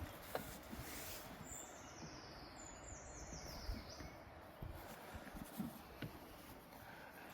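A songbird sings a short run of high notes that fall in pitch, over a faint, steady low rumble.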